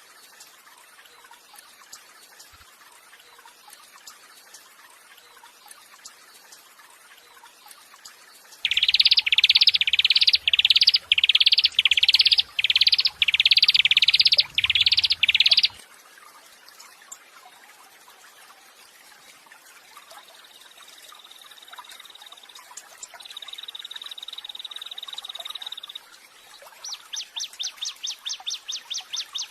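Recorded songbird calls: after a quiet stretch, a loud series of about ten identical rising notes, a little over one a second; later a thin, steady, high trill, then a fast run of repeated high notes near the end.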